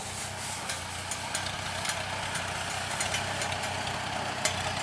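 Vehicle engine running steadily, with a low hum and scattered sharp ticks.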